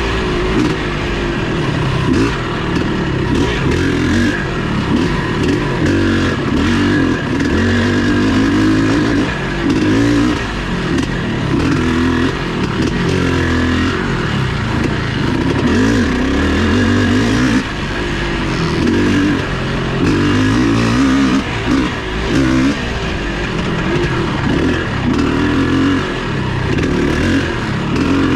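Vintage off-road racing motorcycle engine running hard, its pitch rising and falling over and over as the throttle opens and closes.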